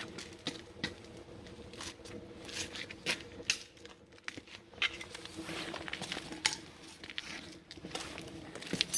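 Scattered light clicks, knocks and rustling at irregular intervals, over a faint steady hum.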